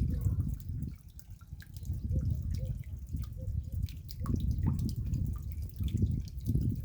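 Raindrops dripping: many small, sharp drips at irregular intervals, over a low rumble that swells and fades every second or two.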